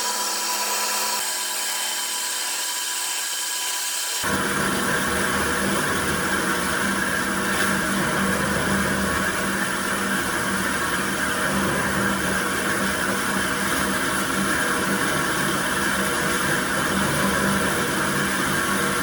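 A woodworking power tool running steadily on wood, with a continuous whine. About four seconds in the sound changes abruptly to a fuller, louder running noise with a low hum, as if a second machine or a new cut takes over.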